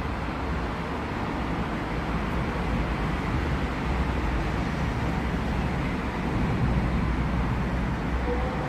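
Thunderstorm noise: a steady rushing with a deep low rumble that swells slightly.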